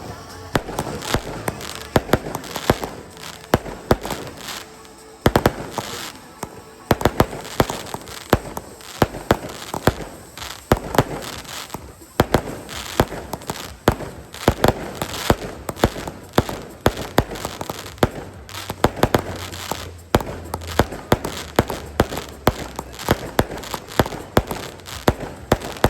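Aerial firework shells bursting in rapid, continuous succession: many sharp bangs a second with crackling in between.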